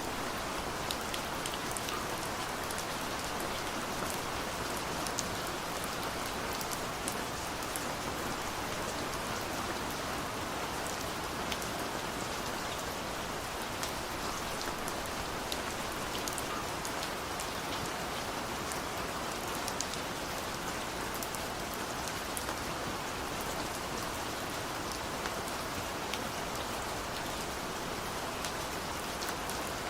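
Steady rain falling, an even hiss with many fine drop ticks scattered through it.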